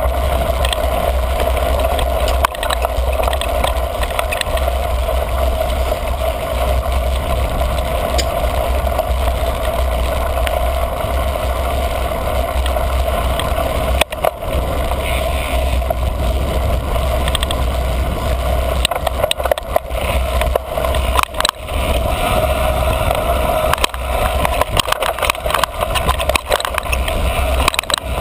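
Niner MCR mountain bike ridden fast down dirt singletrack: steady wind rumble on the camera microphone with tyre noise on the trail and frequent clatters and knocks as the bike goes over bumps.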